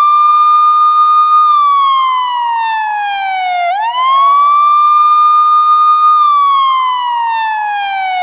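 Electronic police-car wail siren. The tone holds high, slides slowly down over about two seconds, then swoops quickly back up, repeating roughly every four and a half seconds.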